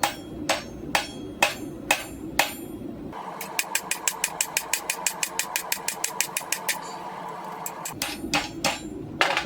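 Hand hammer striking hot rail-spike steel on an anvil, about two blows a second over a steady low rumble. For several seconds in the middle comes a quicker run of lighter strikes, about six a second, without the rumble.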